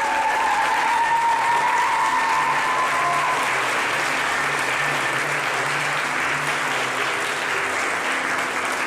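Wedding guests applauding steadily after the couple is presented as husband and wife, with a long high cheer rising over the clapping in the first few seconds.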